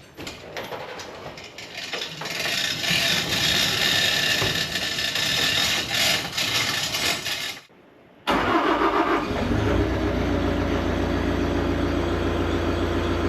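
A noisy, rushing first half, then an abrupt cut; about eight seconds in, an engine starts and settles into a steady idle.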